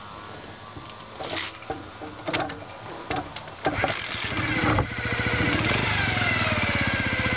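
Honda Dream50's small single-cylinder DOHC four-stroke engine being started: a few short sputters and pops, then it catches about five seconds in and runs steadily, the revs easing down a little.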